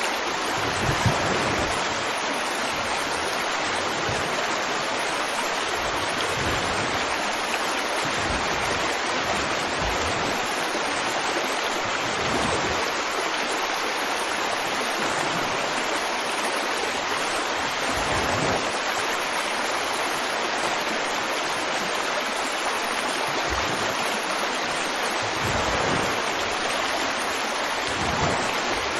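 River water flowing over rocks in a steady rushing wash, with occasional low gurgling swells and a brief louder splash about a second in.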